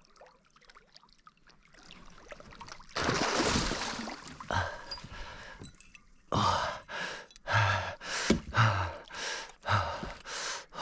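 A loud rushing noise about three seconds in, then an angler's fast, heavy breaths and gasps, about two a second, from excitement and strain while hooked up to a Murray cod.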